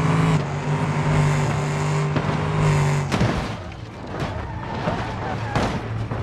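Road vehicle noise on a dashcam: a steady pitched tone for about three seconds that breaks off with a short downward glide, then rushing road noise with a few sharp knocks.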